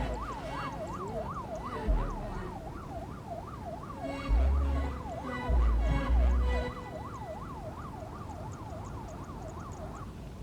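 An electronic siren tone wailing rapidly up and down, about three sweeps a second, with a few deep thuds around the middle; it fades out near the end.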